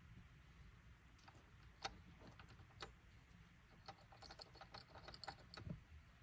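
Loose plastic clip in a 2022 Toyota Tundra's A-pillar rattling: faint, irregular clicks and ticks, thickest in the last couple of seconds, over a low steady rumble.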